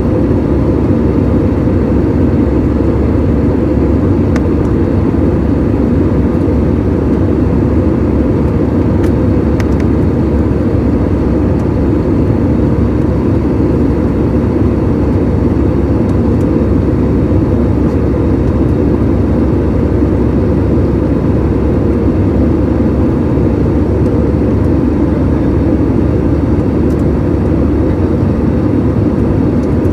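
Steady, loud drone of an airliner's engines and rushing air, heard inside the passenger cabin.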